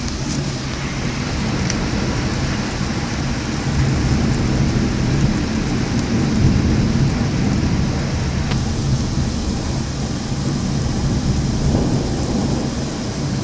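Thunderstorm: steady heavy rain with a continuous low rumble of thunder that swells about four seconds in, and a few sharp ticks.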